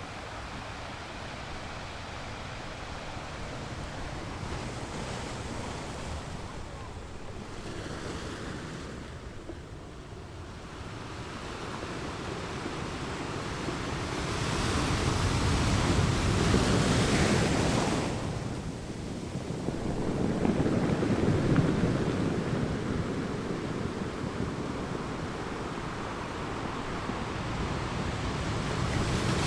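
Ocean surf on a beach: waves washing in softly at first, then surging louder two or three times in the second half as they break and draw back.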